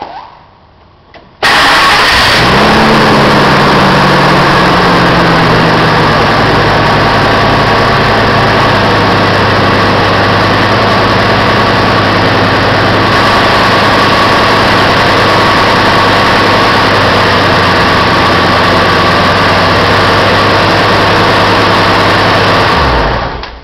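Car engine starting up with a brief flare in revs that settles over a few seconds into a steady, loud idle, then shut off near the end.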